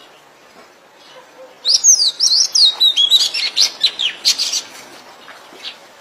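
Oriental magpie-robin singing: a burst of quick, varied whistled notes sliding up and down, starting about two seconds in and lasting about three seconds.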